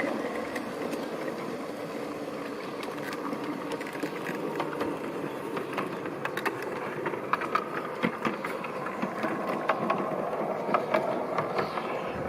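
G-scale model train running on garden railway track: the locomotive's electric motor and gearbox hum steadily, with scattered sharp clicks throughout.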